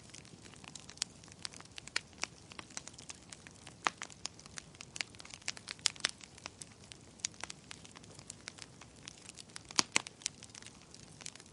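Wood fire burning in a fireplace, logs crackling and popping in irregular sharp snaps over a low steady hiss, with a few louder pops about 6 and 10 seconds in.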